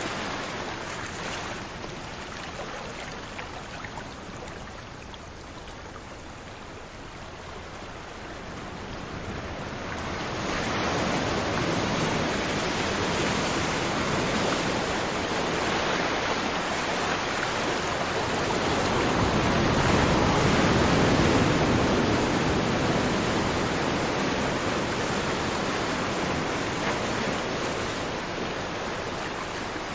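Ocean waves washing ashore: a steady rush of surf that eases early on, swells up from about a third of the way in to a peak past the middle, then slowly subsides.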